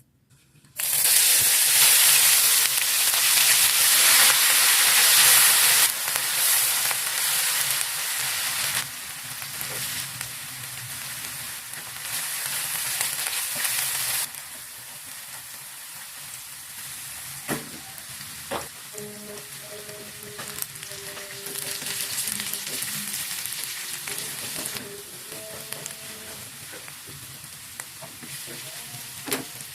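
Food frying in hot oil in a pan, a steady sizzle that starts suddenly about a second in and is loudest for the first few seconds, then settles quieter, with stirring and a few sharp spatula taps in the second half.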